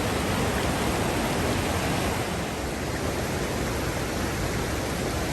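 Whitewater rapids on the New River, a steady rushing of water.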